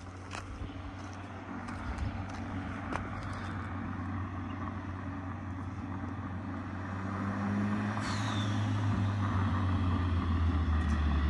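Turbocharged VW Gol with a 2.0 engine driven gently up the road toward the listener, its engine and tyre noise growing steadily louder as it approaches. A brief high whistle slides down in pitch about eight seconds in.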